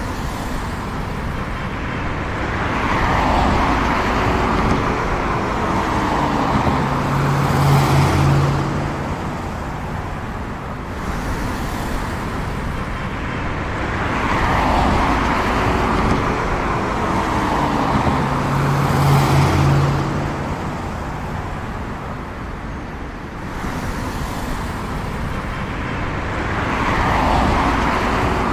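Road traffic, with cars driving past one after another in swells that rise and fade. A low steady engine tone comes in twice. The whole pattern repeats about every eleven seconds, like a looped recording.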